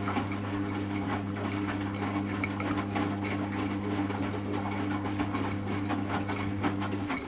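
Servis Automatic M3008B washing machine during its final rinse: a steady electrical hum with water splashing. It starts abruptly and cuts off suddenly near the end.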